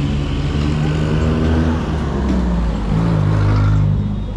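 A motor vehicle's engine running close by, its pitch shifting as it revs. It is loudest near the end, then falls away.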